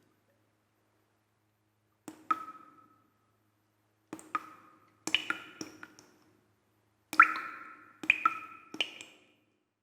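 Comedic sound effect: clusters of two or three quick knocks, each with a short ringing tone that dies away, repeated about six times after some two seconds of silence.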